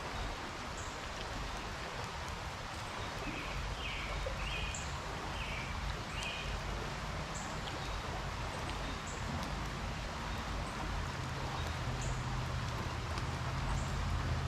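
Steady outdoor background of flowing creek water and distant road traffic, with a low rumble building near the end. A few short high chirps come about four seconds in.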